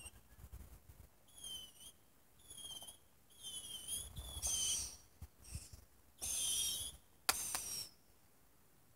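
Consumer fireworks giving a run of short whistles, about one a second, each holding one high pitch and dipping at its end. A hiss of sparks runs under the louder ones, and a sharp crack comes about seven seconds in.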